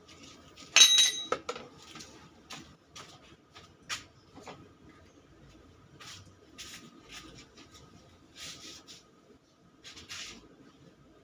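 Metal tools and engine parts being handled: one loud ringing clang about a second in, then scattered light clinks, taps and scrapes.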